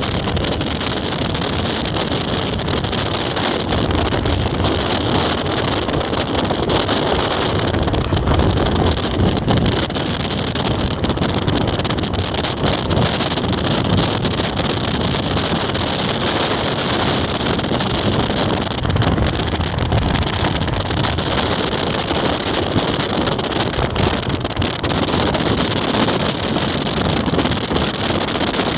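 Strong gusting wind buffeting the microphone: a loud, continuous rush of noise with heavy low rumble, swelling and easing without a break.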